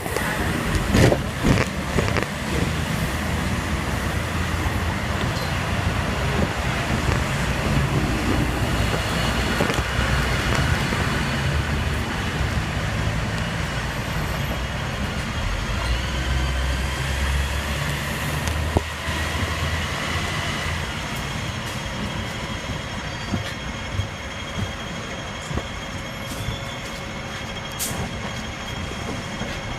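Hong Kong tram running along street track: a steady rumble of wheels on rail with a shifting low motor hum. There are a few sharp clicks near the start and a faint rising whine about halfway through.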